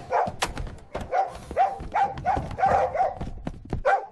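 Dog barking repeatedly, several barks a second and overlapping, with low thuds underneath.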